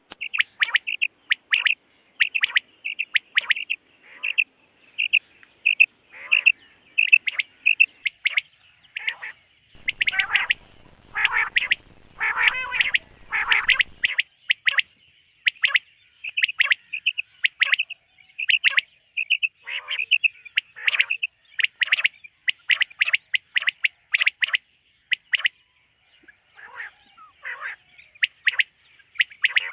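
Common quail calling over and over, short sharp notes in quick repeated groups. About a third of the way in, a few seconds of louder, rougher calls come with a low rumble underneath.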